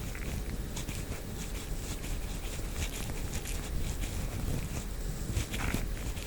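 Stainless steel earpick scraping inside an ear canal: irregular short scratches and rustles close to the microphone, a slightly stronger scrape near the end.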